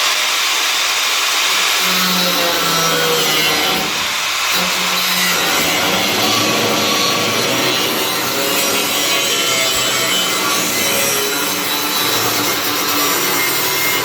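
Angle grinder cutting disc slicing through the car body's steel, running steadily under load with a hissing cut.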